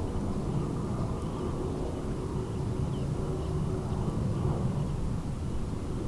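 Steady low rumble of a jet airliner's engines, with wind buffeting the microphone.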